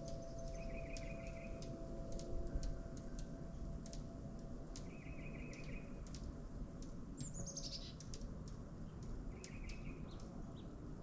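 Small songbirds calling: a short buzzy trill three times, many sharp chip notes throughout, and one quick run of notes falling in pitch about seven seconds in, over a low steady background hiss.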